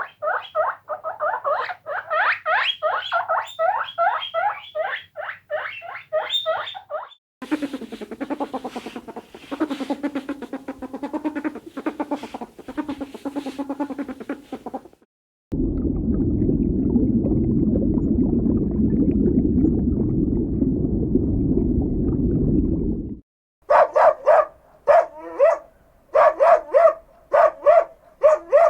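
A run of different animals' calls in turn, each cut off abruptly. First comes a fast series of repeated high calls, then lower calls with some clicks. Next is a steady low rasping sound for about eight seconds, and near the end a series of short repeated calls.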